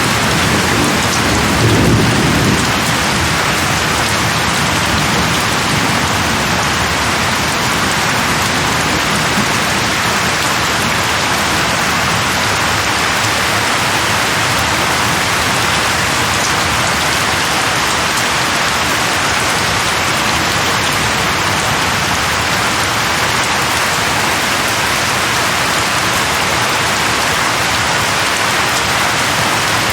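Steady heavy rain falling, with a short rumble of thunder in the first few seconds.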